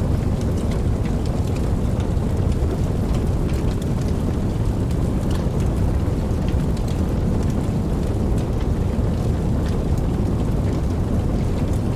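Steady rain, with a deep continuous low rumble underneath and scattered sharp drop ticks on top.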